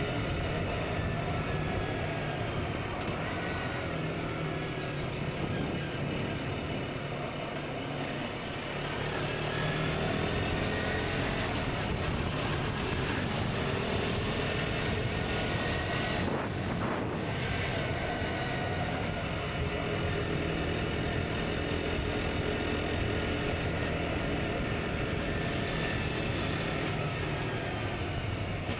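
KTM Duke 125's single-cylinder four-stroke engine through an Akrapovic exhaust, riding along with its pitch climbing and dropping again and again through the gears over a steady rush of wind. The pitch breaks off briefly about two thirds of the way through, then climbs again.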